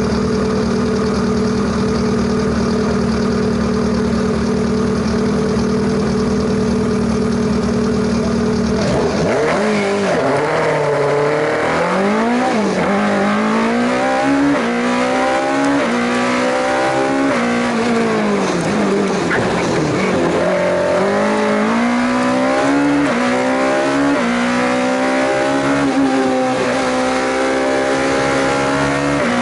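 Renault Clio Williams' 2.0-litre four-cylinder engine held at steady revs for about nine seconds, then the car accelerates hard up the hill-climb course, the revs climbing and dropping back at each gear change.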